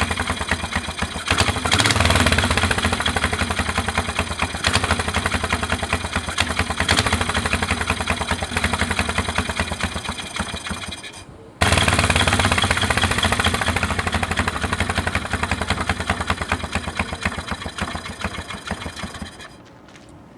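Polaris Sportsman 335 ATV's single-cylinder four-stroke engine running at a fast idle with a rapid, even exhaust beat, while its carburetor air-fuel mixture is being tuned. It picks up briefly about two seconds in, drops away just past the middle and comes straight back, then fades near the end.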